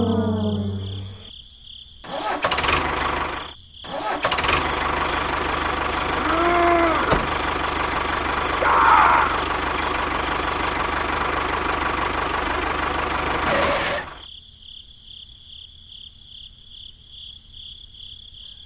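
A small engine cranks and runs steadily for about ten seconds, then cuts off abruptly.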